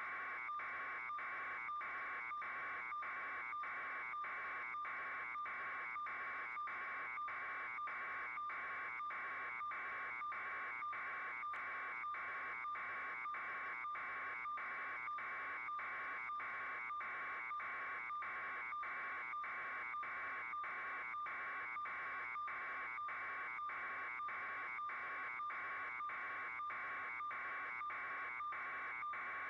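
A steady electronic buzzing tone that pulses evenly, a little under two pulses a second, with no change in pitch or level.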